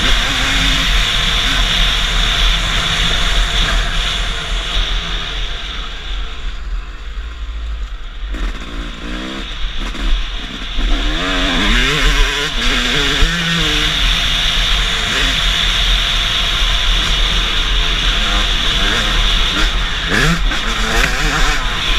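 Motocross motorcycle engine being ridden, its pitch rising and falling as the throttle is worked, over a constant heavy low rumble.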